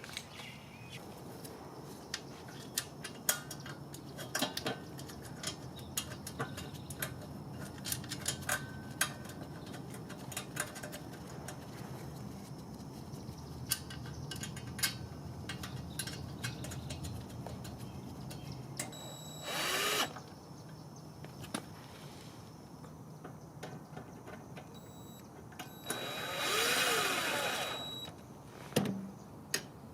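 Hand-tool work: scattered clicks and knocks, with two short runs of a power tool's motor, the second one longer, about twenty and twenty-seven seconds in.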